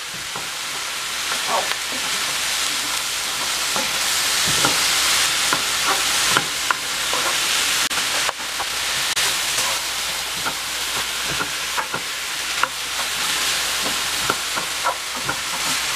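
Cauliflower rice and diced vegetables sizzling in a hot frying pan while a wooden spoon stirs through them, with scattered clicks and scrapes of the spoon against the pan.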